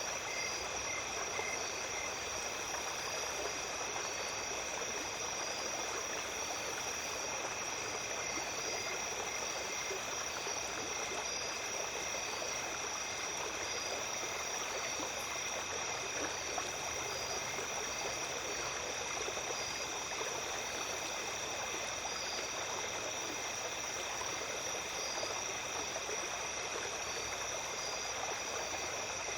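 Small stream flowing steadily over stones, with a chorus of night insects calling over it: a constant high shrill tone and rows of evenly repeating chirps.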